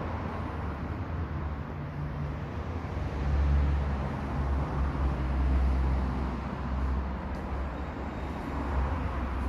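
Honda Biz 125's single-cylinder engine running at idle, a steady low hum that swells louder for a few seconds in the middle.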